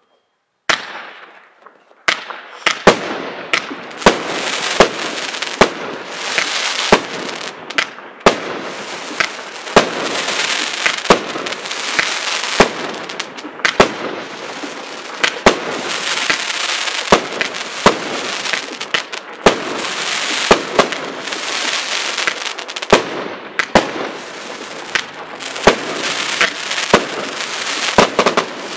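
A 25-shot, 25 mm consumer fireworks battery (cake) firing its shots in sequence, a sharp bursting bang about once a second. Between the bangs there is a continuous hiss and crackle from the rising comet tails and the crackling stars.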